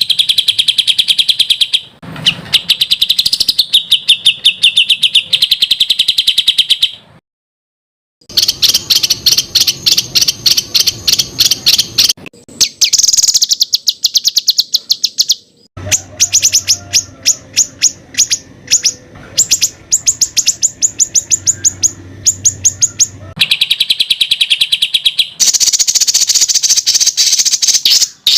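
Songbirds giving rapid-fire 'tembakan' strings of sharp, evenly repeated notes, the tight shot-like phrases of a masteran recording for training competition birds. The runs last a few seconds each and shift in pitch from one to the next, with a silent break of about a second near the middle.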